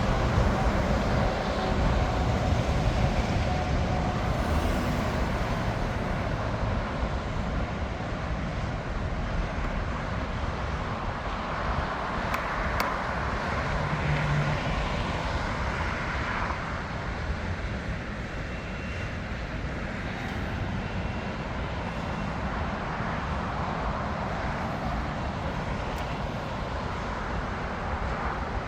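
Jet airliner engines at an airport, a steady rumbling roar that swells for a few seconds in the middle before easing off.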